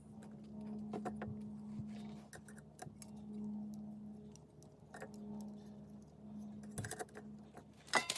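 Metal utensils clicking and clinking against cookware while food is cooked, the sharpest cluster of clinks near the end, over a steady low hum.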